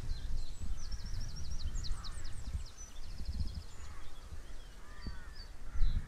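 Wild birds calling: quick runs of short, high notes and a fast trill, then a few lower, harsher calls near the end. A low, irregular rumble runs underneath.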